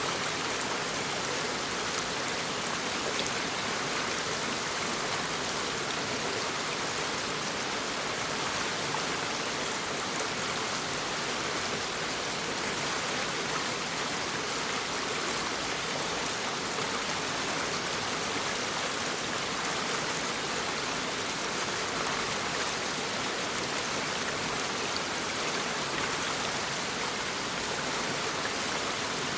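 A shallow stream babbling steadily over rocks, a constant rush of running water.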